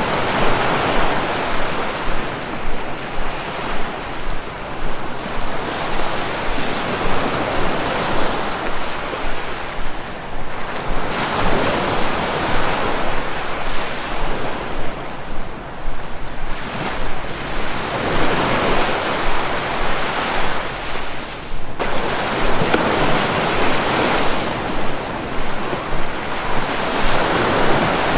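Sea waves washing onto the shore, a continuous hiss that swells and fades every five or six seconds as each wave comes in.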